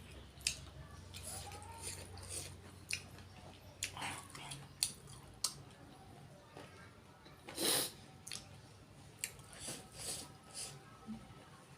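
Close-up eating sounds: pork being chewed, with irregular wet mouth clicks and smacks and one longer, louder burst of noise a little past halfway.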